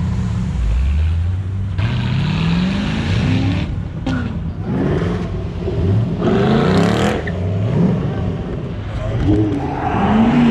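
Car engines revving hard and accelerating, the engine note rising again and again in several climbs through the revs.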